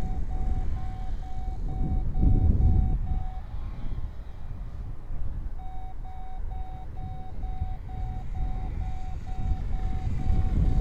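Strong wind buffeting the microphone with a heavy low rumble. Over it, an electronic beeper sounds short, even, high beeps about three a second; the beeps stop for about two seconds midway, then resume.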